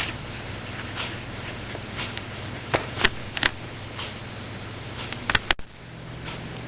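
A few light clicks and taps from handling small objects at close range, over a steady low hum.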